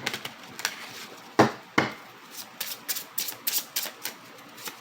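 A deck of oracle cards being shuffled and handled by hand on a table: a few knocks of the deck, then quick light riffling clicks about three to four a second near the end.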